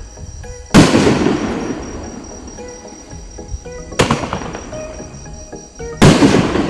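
Aerial shells of a 3-inch, nine-shot firework cake going off: three loud booms, about a second in, at four seconds and near the end, each fading away slowly. Background music plays under them.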